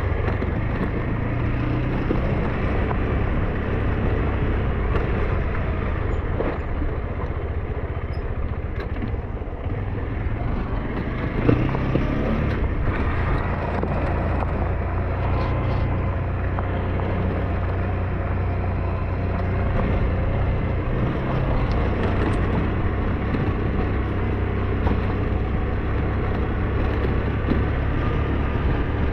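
SYM NH T 200 motor scooter's engine running steadily while under way, with one brief knock about eleven seconds in.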